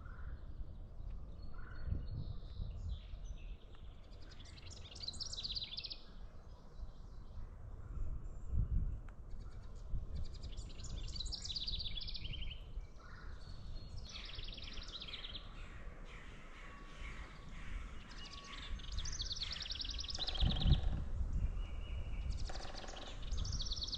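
A songbird repeating a short, fast trilled song about every four seconds, with an uneven low rumble and soft thumps underneath.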